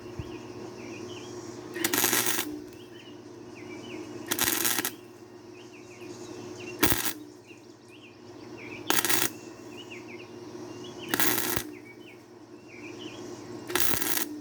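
Wire-feed welder striking short welds on steel bedframe metal: about six bursts of half a second or so, roughly every two and a half seconds, with a steady hum underneath between them.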